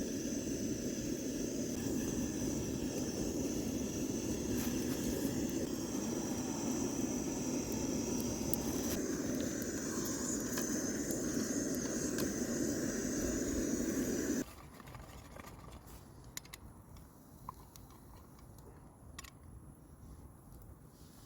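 Portable gas camping stove burning on full flame under burgers frying in a pan: a steady rushing hiss with faint crackles. It cuts off suddenly about two-thirds of the way through, leaving only faint scattered ticks.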